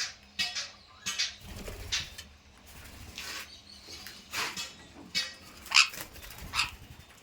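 Pet parrot giving a series of short squawks, about ten separate calls a fraction of a second each, the loudest near the end.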